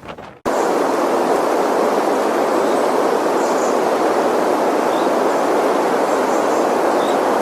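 Strong wind blowing as a loud, steady roar, starting abruptly about half a second in.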